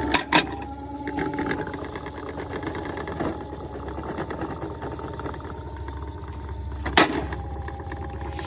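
Small electric motor whirring steadily, with sharp knocks just after the start and again about seven seconds in.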